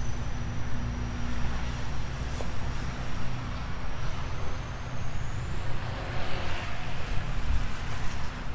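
Steady low rumble of outdoor background noise, with a faint steady hum.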